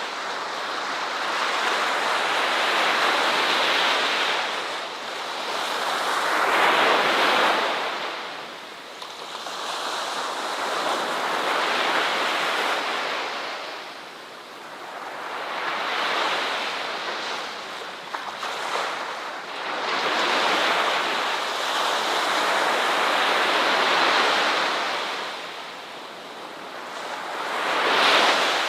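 Ocean surf: waves breaking and washing up the shore, the rush swelling and falling back every few seconds.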